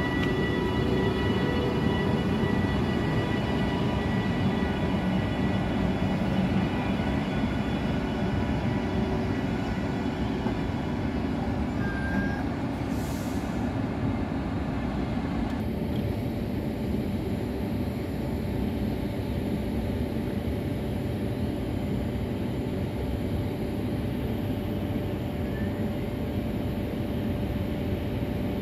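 VR electric locomotive and its double-deck Intercity coaches rolling slowly past: a steady rumble of wheels on the track with a faint electric whine. About halfway through the upper sounds fall away and a lower steady hum remains.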